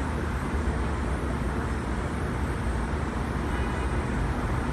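Steady low rumble and noise inside an R160B subway car.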